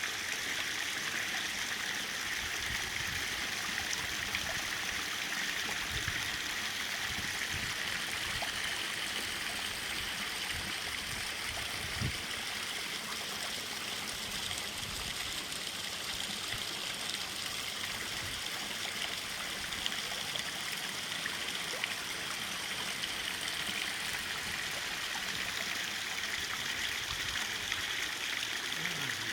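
Water from a homemade garden-pond waterfall splashing steadily into the pond.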